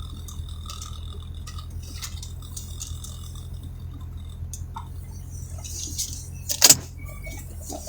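Vehicle engine running steadily, heard from inside the cabin, with small clicks and rattles and one sharp knock near the end.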